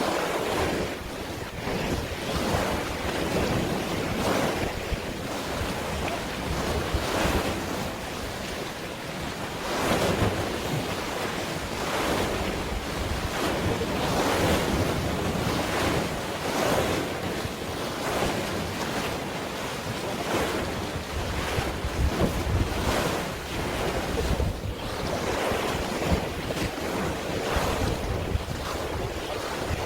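Wind buffeting the microphone over waves washing and splashing, in uneven swells with no steady rhythm.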